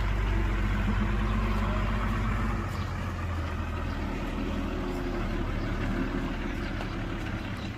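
Diesel engine of heavy earthmoving machinery running with a steady low drone, easing off a little about a third of the way in.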